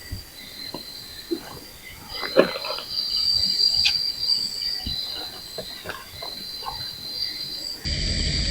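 Night insects keeping up a steady high-pitched chirring trill, with scattered light crackles and snaps from the campfire wood burning. Near the end the sound switches abruptly to a louder rushing noise under the insect trill.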